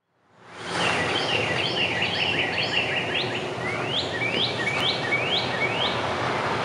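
A songbird singing over steady outdoor background noise. It starts with a run of quick repeated notes, about three a second, then gives about five rising whistled notes, each about half a second apart. The sound fades in over the first second.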